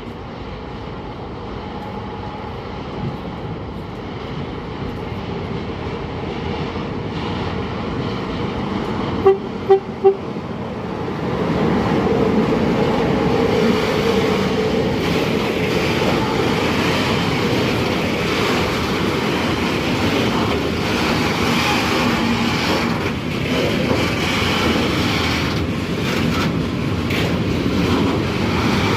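A train approaching with slowly growing running noise; its horn gives three short toots in quick succession about nine seconds in. The train noise then steps up and stays loud and steady as it comes through.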